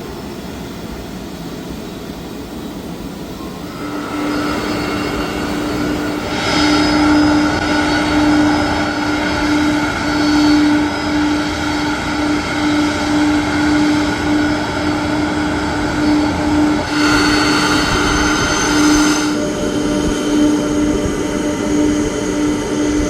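Boeing 747 jet engines running with a steady turbine whine over a noisy rush, growing louder about four seconds in and swelling twice.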